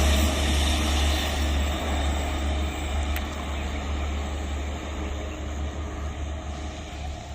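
Local passenger train rumbling past, the noise slowly fading as it draws away.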